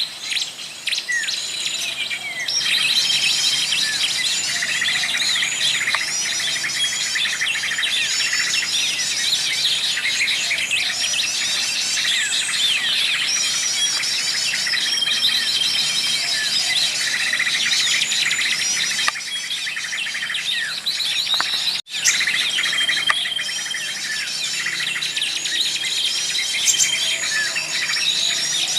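Many small birds chirping and singing at once in a dense, continuous chorus of overlapping trills and whistles, broken by a momentary dropout about 22 seconds in.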